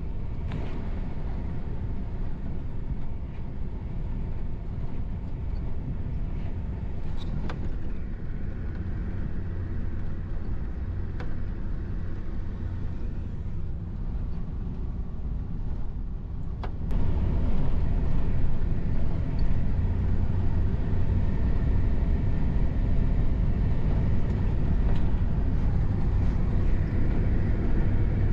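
Motor vehicle running: a steady low rumble with a few short knocks, stepping up in loudness about seventeen seconds in.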